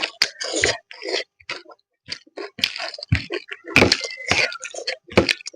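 Close-up chewing and mouth smacking of someone eating, a quick irregular run of short wet clicks and crunches.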